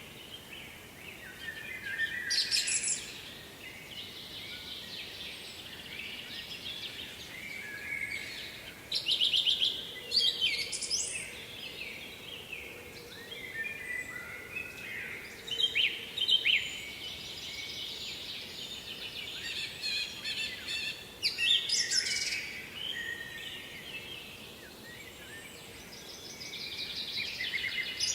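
Songbirds singing short, trilled phrases that recur every few seconds, sometimes overlapping, over a faint steady background hiss.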